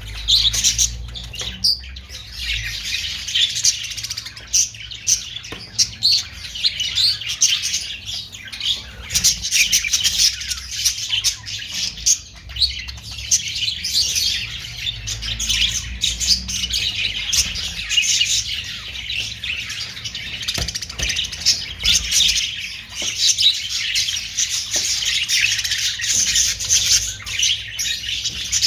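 A flock of budgerigars ('Australian parrots') chattering, with many overlapping warbles, chirps and squawks and no pause.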